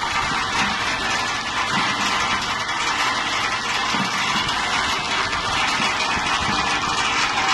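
An engine of farm machinery running steadily, with a dense, even mechanical noise.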